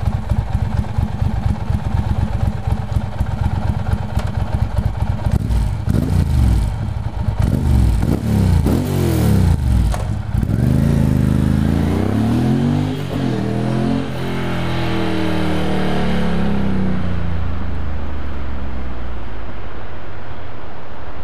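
Ducati Monster 620ie's air-cooled L-twin, through aftermarket Termignoni exhausts, idling with an even pulsing beat, then revved hard several times. It pulls away, climbing and dropping in pitch through the gears, and fades out, leaving a steady background noise.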